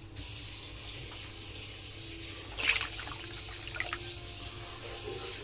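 Water being poured into a dishwasher's salt reservoir, running steadily with a short louder splash about halfway through, as the reservoir is overfilled to flush out the old salt.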